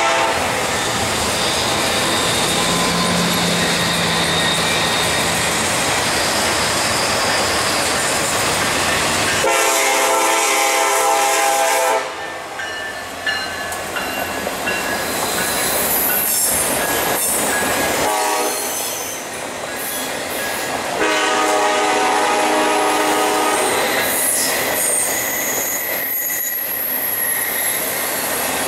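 A train passing close by, with the steady noise and clatter of its wheels on the rails. The locomotive horn sounds two long blasts, one about a third of the way in and one past two-thirds. High wheel squeal comes in during the second half.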